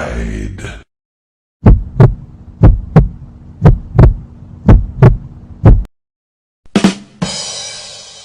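Heartbeat sound effect: about five low double thumps, lub-dub, roughly one a second. Near the end a short click and a hissing sound that fades away.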